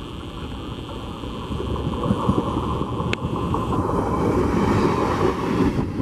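Electric multiple-unit local train passing at speed, the noise of its wheels on the rails growing louder about two seconds in as the cars run by close at hand, with one sharp click about three seconds in.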